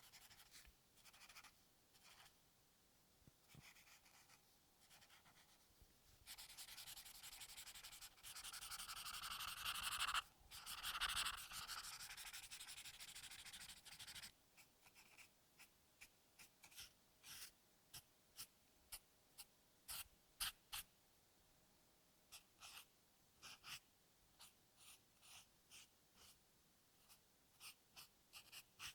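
Drawing on paper, close up: about eight seconds of continuous scratchy shading, then short separate strokes, roughly one or two a second.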